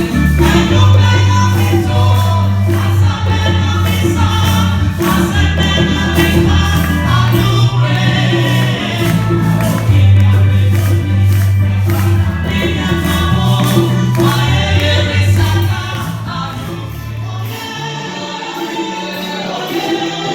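Ghanaian gospel praise song: many voices singing together over a steady bass line, with a tambourine and percussion keeping the beat. The bass drops out near the end.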